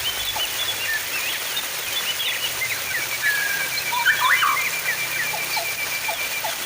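Running water splashing steadily, with small birds chirping over it. About three seconds in, one bird gives a rapid, even trill that lasts about three seconds.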